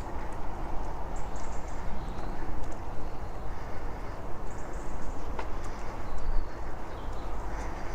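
Wind buffeting the microphone and the rumble of a bicycle ride, with small birds chirping at intervals.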